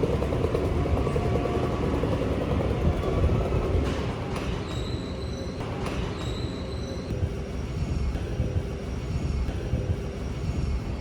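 Sydney electric passenger train running along the track with a steady low rumble. A couple of sharp clicks come about four and six seconds in, and the wheels squeal with high thin tones from about four and a half to seven seconds in, fainter again near the end.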